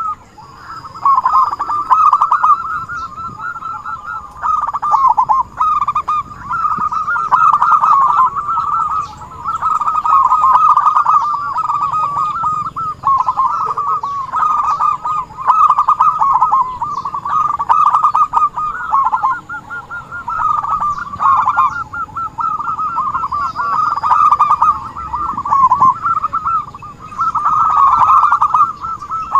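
Zebra doves (perkutut) cooing: loud, rapid, rolling call phrases repeated one after another with short breaks, as used for luring wild doves.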